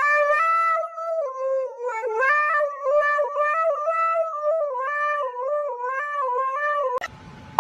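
A pet dog howling in one long, wavering, almost unbroken whine that rises and falls in pitch, cutting off suddenly about seven seconds in.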